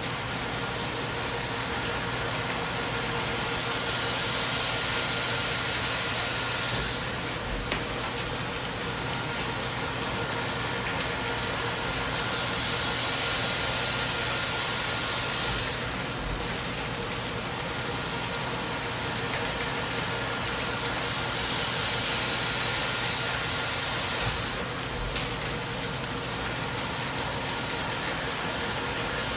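CNC lathe running, a steady machine hum under a hiss. The hiss swells and then drops off sharply three times, about every nine seconds.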